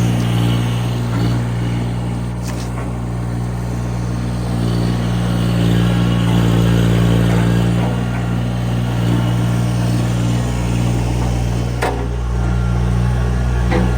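Tractor engine running steadily, its note swelling a little about halfway through, with two sharp knocks near the end.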